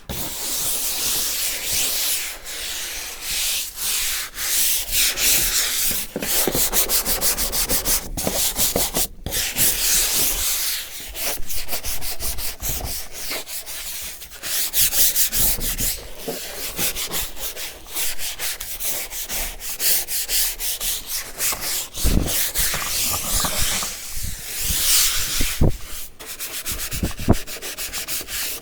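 A fish-cleaning table's surface being scrubbed clean after a spray of disinfectant, in rapid back-and-forth rubbing strokes that keep up with short breaks.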